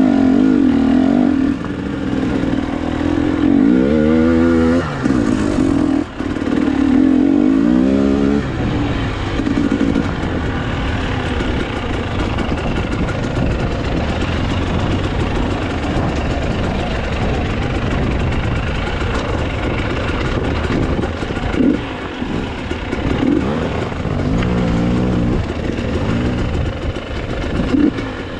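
Enduro motorcycle engine running under changing throttle. Its pitch rises and falls as it revs, around four and eight seconds in and again near the end. In the middle stretch a steady rushing noise covers the engine.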